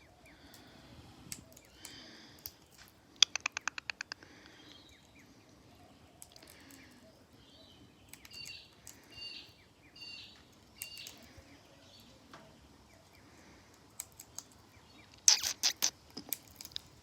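Parrot cracking seeds in its beak: a quick run of sharp clicks about three seconds in and another cluster near the end. Short, soft chirps come in between.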